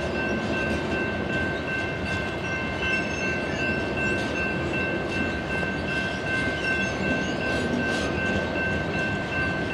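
Loaded BNSF coal train rolling by, a steady, even rumble of the hopper cars on the rails, with a few thin, steady high tones over it.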